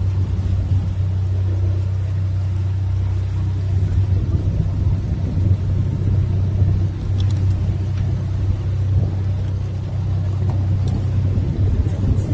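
Canal tour boat's engine running with a steady low hum, with water and wind noise over it.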